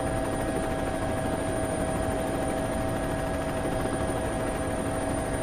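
A steady engine drone holding one pitch throughout, with a constant hum and a faint high whine over a rushing noise.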